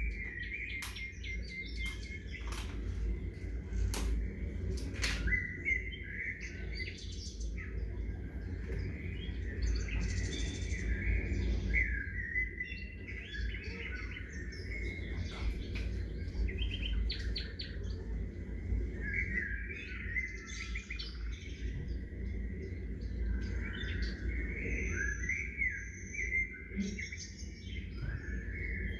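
Several small songbirds chirping and calling, short repeated chirps and trills throughout, over a steady low rumble. A few sharp clicks come in the first few seconds.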